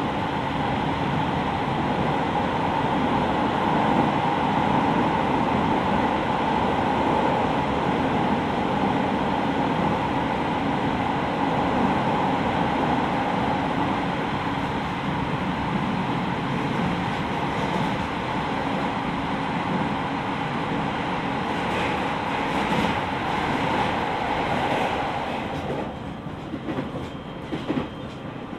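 A JR East 701 series electric train running, heard from inside its front car: steady wheel and rail rumble with motor noise. A run of sharp knocks comes about 22 to 25 seconds in, like wheels clattering over rail joints or points, and near the end the running noise drops noticeably, with a few scattered knocks.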